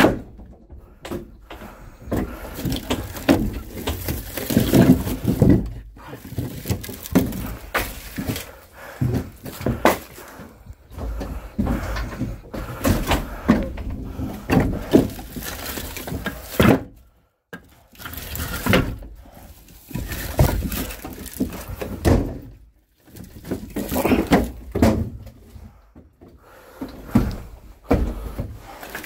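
Split firewood logs knocking and clattering against each other as they are handled and stacked, in irregular wooden thunks with brief pauses.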